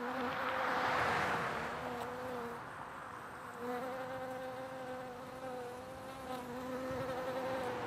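Bees buzzing around flowering shrubs: a steady, slightly wavering drone that dips briefly and returns. A broad rush of noise swells about a second in.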